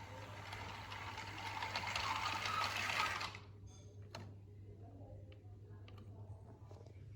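A Märklin My World toy train's small electric motor and plastic gears whirring, growing louder for about three seconds and then stopping suddenly, followed by a few light clicks.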